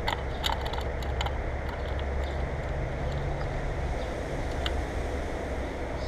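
Quick run of sharp clicks and taps in the first second or so, with one more a few seconds later, as a bird lands on or leaves the bird feeder's wire grid and heaped shelled peanuts. A steady low rumble runs underneath.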